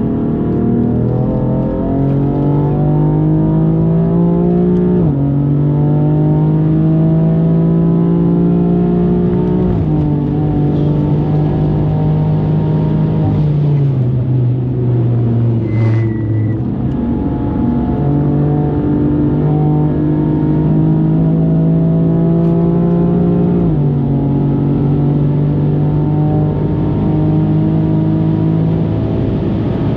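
Heavily modified big-turbo BMW M4's twin-turbo straight-six pulling hard on track. Its pitch climbs steadily in each gear and drops sharply at each of several gear changes.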